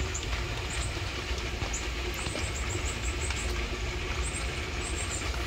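Steady rain falling, with a low rumble underneath and faint, quick high chirps on and off.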